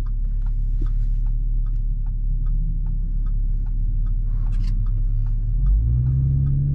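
Exhaust drone of a 2017 Audi SQ5's V6 with AWE non-resonated downpipes and Touring catback exhaust, heard from inside the cabin while driving. The low drone steps up in pitch and strength near the end as the engine pulls harder. A faint, even ticking, about two and a half a second, runs under it.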